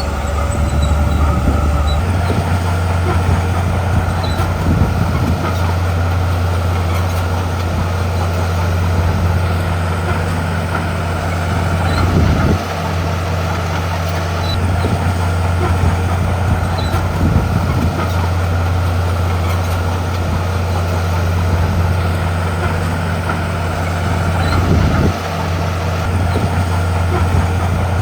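Heavy diesel engine of earthmoving machinery running steadily under work. The hum steps up in pitch about two seconds in and changes abruptly twice more, once near the middle and once near the end.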